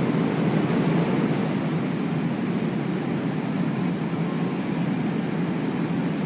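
Airliner cabin noise in cruise flight: a steady, even rush of engine and airflow noise, heard from inside the cabin, heaviest in the low range.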